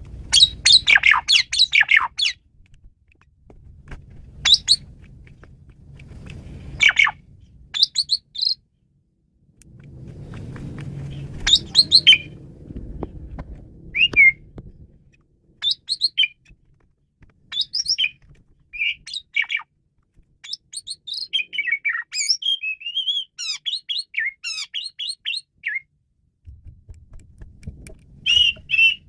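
Asian pied starling (jalak suren) singing: short bursts of varied chattering notes, whistles and harsh squawks, with a longer run of rapid notes near the end. A low rumbling noise sits under the song at times.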